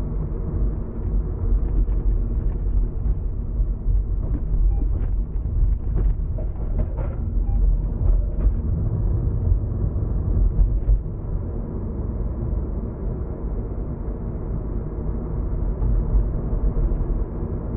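Steady low rumble of road and engine noise in a moving car. A few faint short ticks and knocks come through in the middle.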